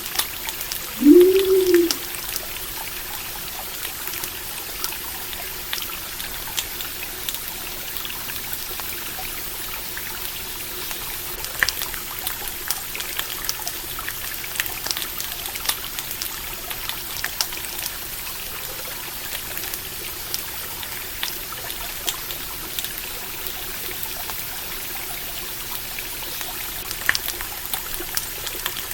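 Steady flow of stream water with a campfire crackling in small scattered pops. About a second in, a short, low call rises and falls in pitch once.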